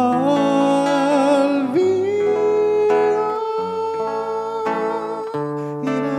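Acoustic guitar playing chords under a singer's voice holding long notes, wavering with vibrato for the first couple of seconds, then sliding up to one high note held for about four seconds.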